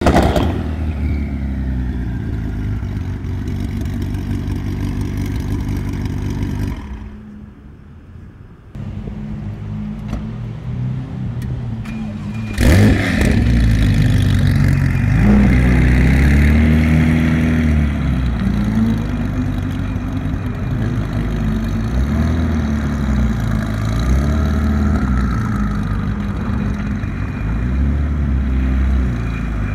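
Tuned 9ff Porsche 997 911 Turbo's twin-turbo flat-six, loud, idling with a low steady note that drops away briefly about seven seconds in. After a sharp crack a little before halfway it is revved again and again, the pitch rising and falling with each blip.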